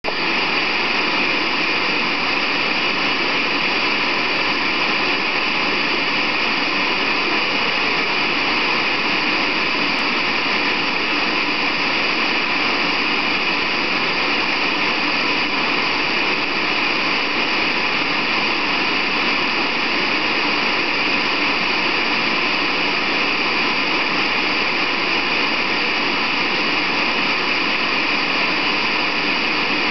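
Loud, unchanging white-noise hiss, harsh and strongest in the upper middle, with no rhythm or change at all.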